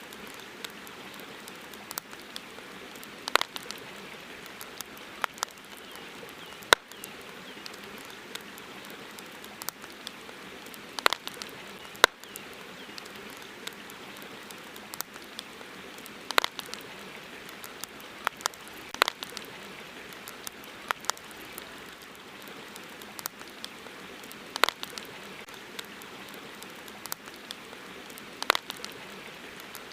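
Campfire crackling: irregular sharp pops and snaps, a few seconds apart, over a steady soft hiss.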